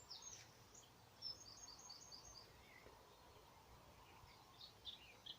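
Faint birdsong: quick runs of short, high chirps, one starting about a second in and another near the end, over a low steady rumble.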